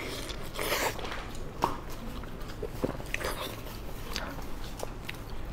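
Close-up chewing and biting of braised pork intestines: irregular wet mouth noises and small clicks.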